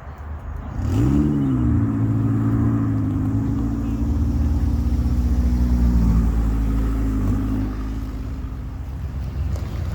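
Car engine revved once about a second in, then running steadily at low speed, quieter for the last couple of seconds.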